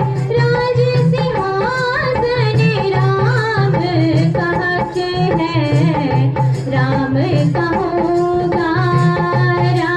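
A young girl singing a Hindi devotional bhajan to Shri Ram, a wavering melodic line over a steady, pulsing instrumental accompaniment.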